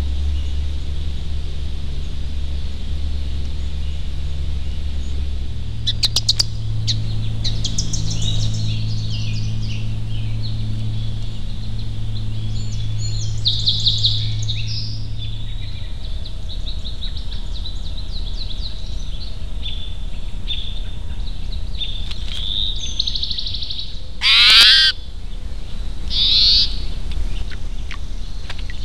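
Wild birds calling: a run of high chirps and short song phrases from about six seconds in, then two louder, harsher calls near the end, over a steady low hum.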